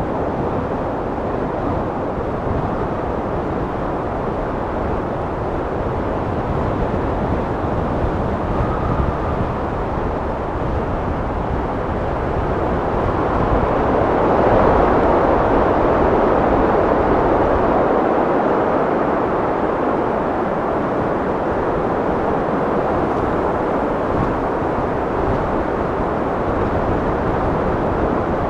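Wind blowing steadily with a deep rushing sound, swelling into a stronger gust about halfway through and then easing back.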